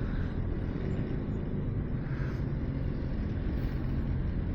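Motorcycle engine idling steadily, a low continuous rumble.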